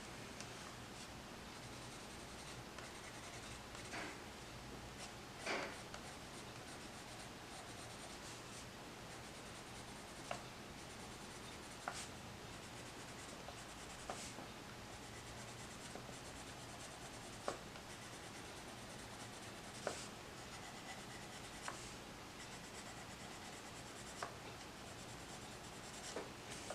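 Coloured pencil scratching faintly on paper as an area is shaded in, with a small sharp tick every couple of seconds.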